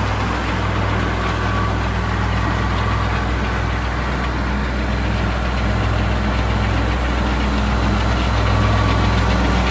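Kubota tractor engine running steadily under way.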